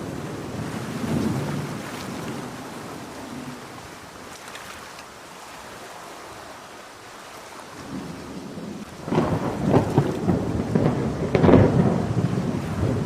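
Heavy rain hissing steadily while thunder rumbles. A low roll fades over the first few seconds. About nine seconds in, a closer thunderclap crackles and rumbles, loudest near the end.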